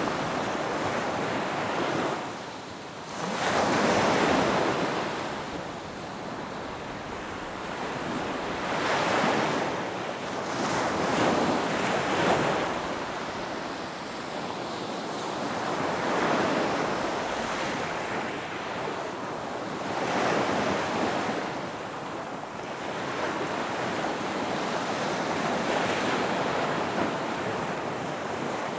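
Ocean surf breaking on a beach: waves wash in and recede in repeated swells, about one every four to five seconds, the loudest about four seconds in.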